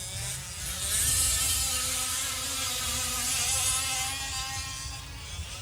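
Small two-stroke gas engines of 5th-scale RC off-road trucks buzzing at high revs. The sound swells louder about a second in, holds, then eases off as the trucks run past.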